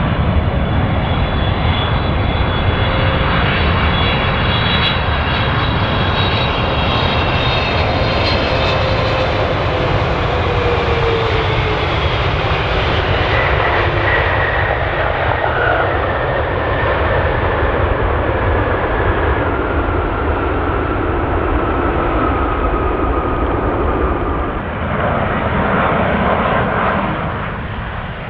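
Jet airliner coming in to land and passing close, its engines whining over a steady low rumble, with the whine sliding slowly down in pitch as it goes by.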